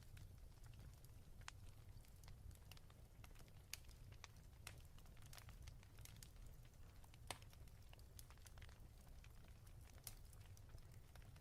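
Faint fireplace crackle: irregular sharp pops and snaps from burning wood over a low, steady rumble.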